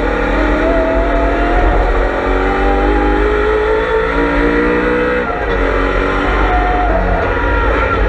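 BMW M3 E92 race car's V8 engine heard on board under hard acceleration, its note climbing steadily for about five seconds. The pitch drops suddenly at a gear change, and then the engine pulls up again.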